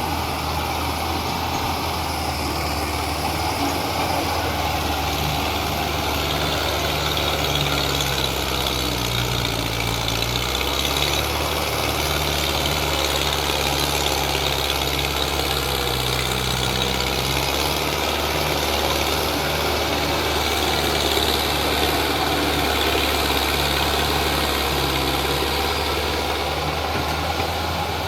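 Mahindra Arjun tractor's diesel engine running steadily under load, pulling a trolley loaded with soil; its low pitch shifts slightly now and then.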